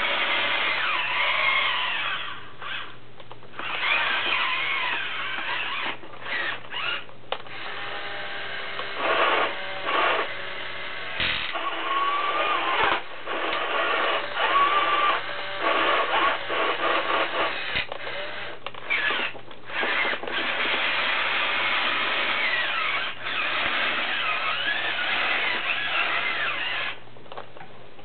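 Small electric motors and gearboxes of a wired remote-control toy Caterpillar 245D excavator whining as it is worked, starting and stopping repeatedly with short pauses and the pitch of the whine shifting.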